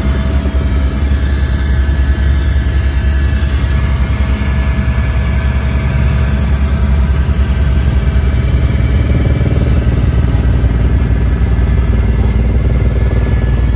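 Helicopter running steadily, a loud low drone with rapid pulsing from the rotor and engine.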